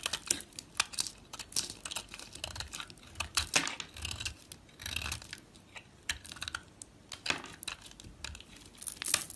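Dry soap being cut with a knife: irregular crisp crackles and snaps, with a few louder cracks standing out.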